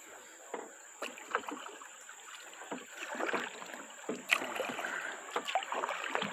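Kayak paddling: paddle strokes splashing and dripping in river water, growing fuller about halfway through, with scattered sharp knocks, the loudest a little after the middle.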